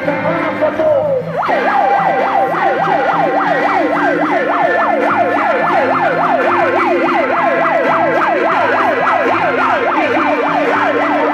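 Police car siren going from a slow wail into a fast yelp about a second and a half in, sweeping up and down about four times a second, with music playing underneath.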